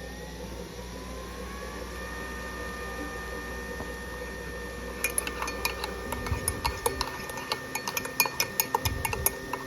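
Soft steady held tones, then from about halfway in a run of quick, irregular clinks and jingles.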